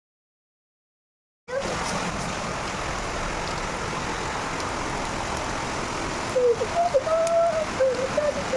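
Silence for about a second and a half, then a steady rush of heavy rain and flowing floodwater. A voice calls out faintly over it in the last couple of seconds.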